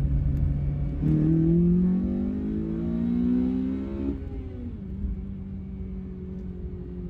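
Honda Civic FN2 Type R's K20 four-cylinder engine pulling hard, its note rising in pitch for about three seconds, then dropping as the revs fall just after the four-second mark and settling to a steady, quieter cruise. The intake noise is louder than stock because the airbox has a corner cut out and the bonnet sound deadening has been removed.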